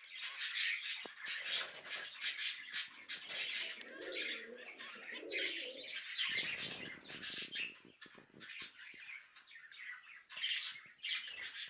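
Pet finches calling: a busy run of short, high chirps repeated over and over, with a lower sound mixed in from about four to seven seconds in.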